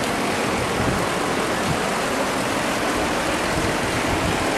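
Steady, even rush of flowing floodwater in a street.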